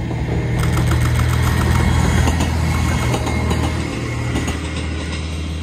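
Diesel railcar passing close by, its engine's low drone swelling to a peak one to two seconds in and easing off near the end. A quick run of sharp clicks, the wheels over the rails, comes as it goes past.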